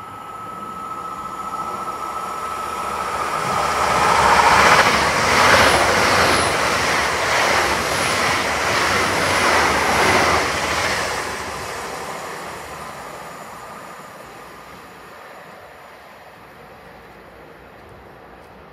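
GWR Intercity Express Train passing through the station at speed without stopping. It builds to a loud rush about four seconds in, with an even clatter of wheels over the track as the coaches go by, then fades away. A thin steady tone is heard until the train arrives, about three seconds in.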